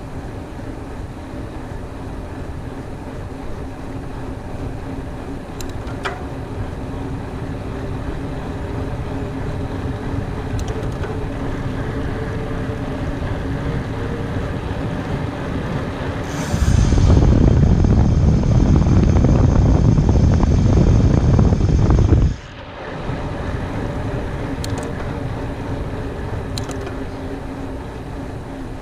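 Mountain bike rolling fast along a dirt trail: steady tyre and drivetrain noise with a faint hum and a few sharp ticks from the bike. From about sixteen seconds in, a loud rumble of wind buffeting the microphone lasts about six seconds and cuts off suddenly.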